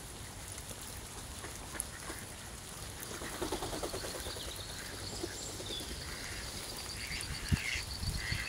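Steady patter of rain, with ducks calling. Near the end there is a sharp thump and a few low thuds as ducks take off into flight.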